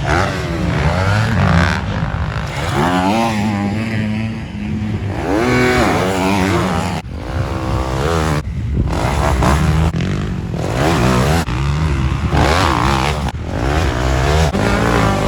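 Several motocross dirt bikes racing, their engines revving up and dropping back again and again as they shift gears and work the throttle, with several engines heard at once.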